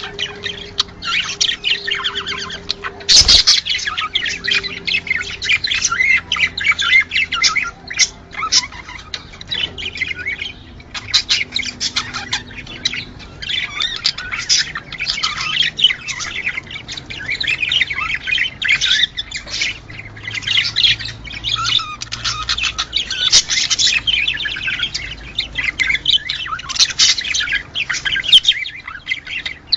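A flock of budgerigars chattering, with continuous overlapping chirps, warbles and squawks. One sharp click comes about three seconds in.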